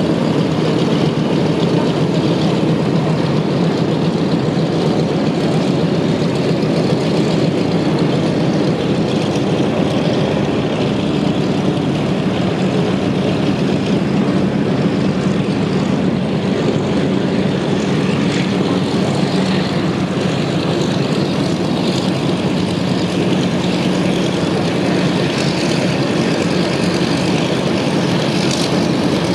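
Piston radial engines of Douglas DC-3/C-47 Dakota aircraft running steadily at a constant level, a propeller drone with a low engine note.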